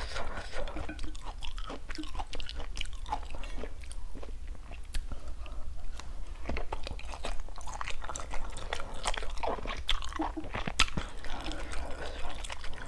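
Close-miked chewing and wet mouth sounds of a person eating a pan-seared scallop, with scattered short clicks.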